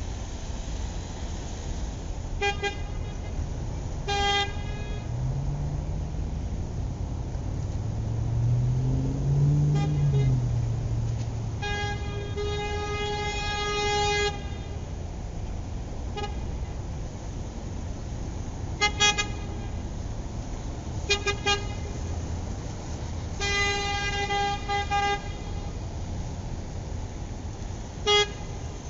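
Remote control toy car's electronic horn honking: short beeps, some in pairs, and two longer toots of a couple of seconds each, over the low whir of the toy's motor, which rises and falls in pitch about eight seconds in.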